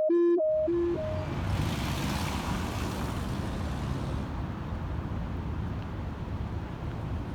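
A two-note electronic intro tone cuts off about half a second in, giving way to steady low road-vehicle rumble with a swell of hiss between about one and four seconds in.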